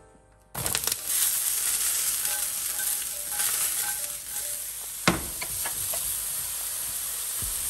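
Sliced champignon mushrooms hitting hot oil in a non-stick frying pan: a sudden loud sizzle about half a second in, then steady frying as the pan is handled. One sharp knock about five seconds in.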